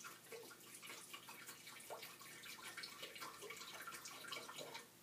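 Acetone being poured into a glass beaker: a faint, patchy trickle and splash of liquid that stops just before the end.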